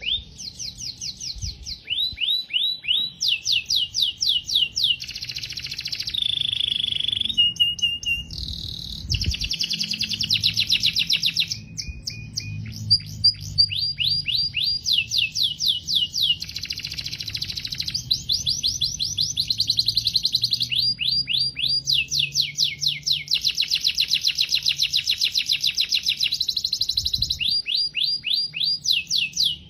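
Domestic canary singing one long, unbroken song. It moves from one run of quickly repeated, sweeping high notes to the next every second or two, with a few short held whistles in between.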